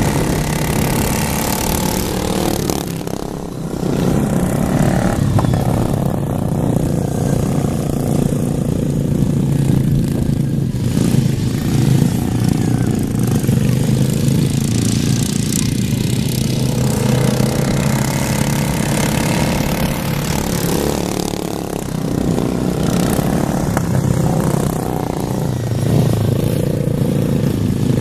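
Racing lawn mower engines running hard during a heat, a loud continuous engine drone that dips briefly a few seconds in.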